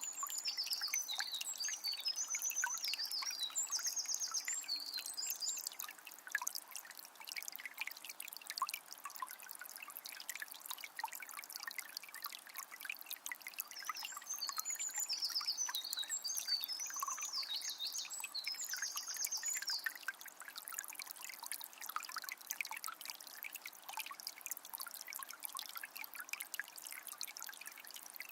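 A small spring trickling and dripping steadily. A songbird sings high twittering phrases twice, each about six seconds long.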